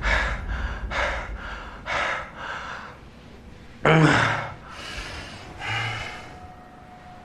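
A man breathing hard in quick panting breaths, then a loud, sharp gasp about four seconds in and another heavy breath near six seconds: waking in fright from a nightmare.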